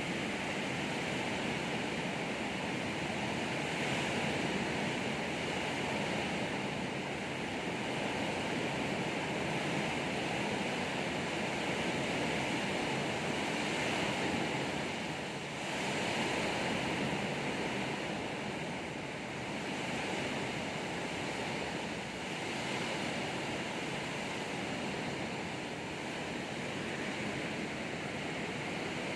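Heavy rain pouring down in a windstorm: a steady, even rush of rain noise that swells and eases slightly with the gusts.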